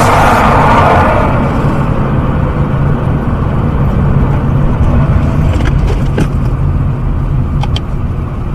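Car engine and road noise from inside a moving vehicle, steady and low. A loud rushing noise at the start fades away over the first second or two, and a few faint clicks come near the end.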